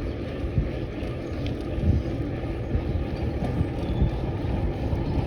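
Wind buffeting the microphone with a steady low rumble of riding noise from a moving bicycle, with a few small knocks.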